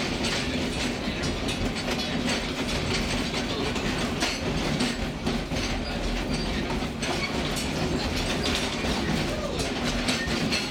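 Narrow-gauge passenger coach of a steam-hauled train rolling along, heard from inside the open-sided car. A steady rumble of wheels on rail runs under frequent irregular clicks and rattles from the car and track.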